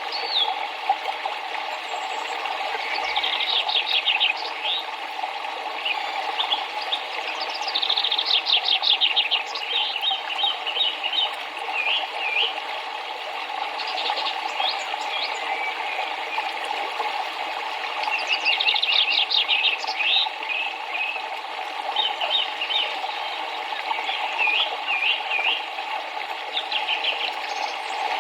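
River water rushing steadily, with songbirds singing over it in repeated phrases of rapid high chirps and trills.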